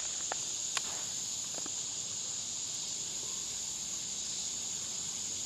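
Summer insects buzzing in a loud, steady chorus held at one high pitch, with a few faint clicks in the first two seconds.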